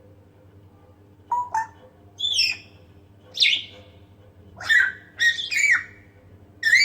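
African grey parrot whistling: a string of about eight short, loud whistled calls beginning about a second in, several sliding down in pitch.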